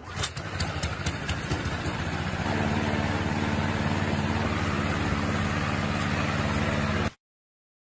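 A few sharp clicks, then an engine running steadily from about two and a half seconds in. The sound cuts off abruptly near the end.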